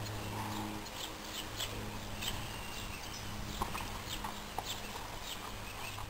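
Birds chirping over and over, short high calls, over a steady low hum, with a few short clicks after the halfway point.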